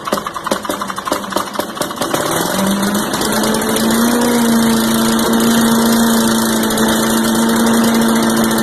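Tecumseh 4 hp engine of a Garden Way chipper vac running on its freshly rebuilt carburetor: uneven, pulsing firing at first, then it speeds up over a second or two about two and a half seconds in and settles into a steady run.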